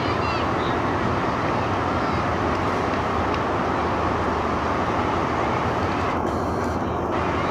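Eastern & Oriental Express train rolling slowly away over the rails, a steady low rumble.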